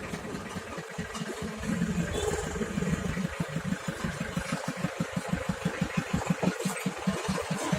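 An engine idling with an even, rapid low pulse that grows sharper from about halfway through.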